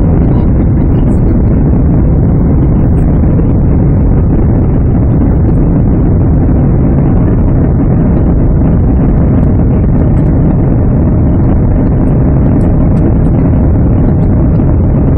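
Boeing 767-300 cabin noise in the climb after takeoff: a loud, steady, deep rumble of the jet engines and rushing air, unchanging throughout.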